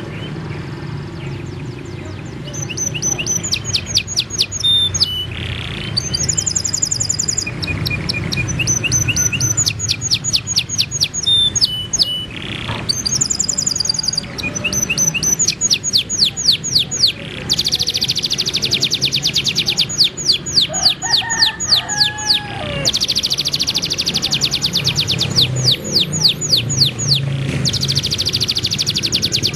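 Songbirds singing: phrases of fast, high repeated notes and trills lasting one to three seconds each, with a lower, warbled phrase about twenty-one seconds in, over a steady low hum.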